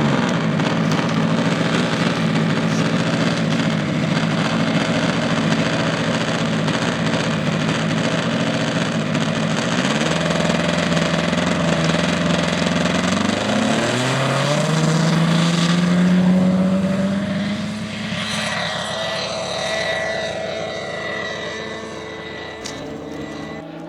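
The geared two-cylinder inline two-stroke engine of a large-scale radio-controlled P-51D Mustang model (MVVS) runs with its four-blade propeller in flight. Its pitch dips and climbs again with the throttle about ten and fourteen seconds in, then the sound fades as the plane moves away.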